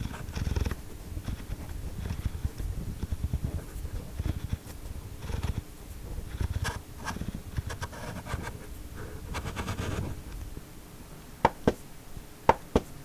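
A volume knob being turned, giving an irregular scratchy, crackling noise: the abnormal noise in question. A few sharp clicks come near the end.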